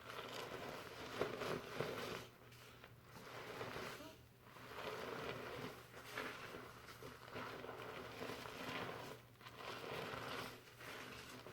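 Fingers scrubbing foamy shampoo lather through hair, a crinkly rustling. It comes in surges of a second or two, broken by short pauses.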